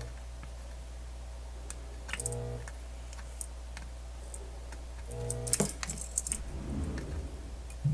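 Light clicks and rattles of small hard parts being handled, over a steady low hum, with a short low tone sounding about every three seconds.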